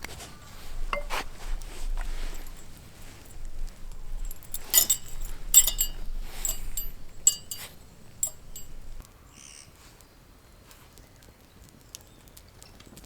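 Utensils and dishes clinking and knocking as they are handled, with a cluster of bright, ringing clinks about halfway through and only a few light clicks near the end.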